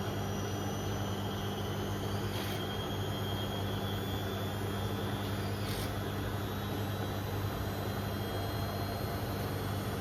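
Beko WM74135 washing machine running with a steady motor hum and no break or change in pitch.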